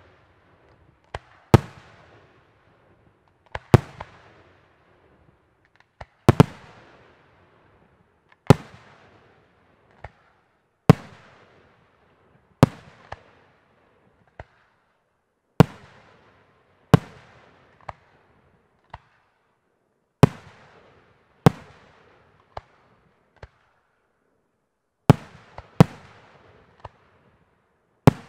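Professional aerial fireworks display: shells bursting overhead in a series of sharp bangs, one every second or two, some louder than others, each trailing off in an echo.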